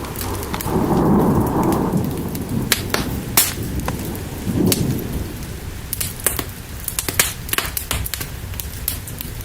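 Steady rain with low rolling thunder that swells twice, about a second in and again near the middle. Sharp crackling pops are scattered throughout.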